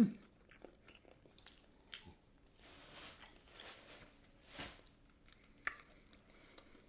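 A person chewing and biting food close to the microphone: soft, quiet mouth sounds with a few short clicks, after a brief rising hum right at the start.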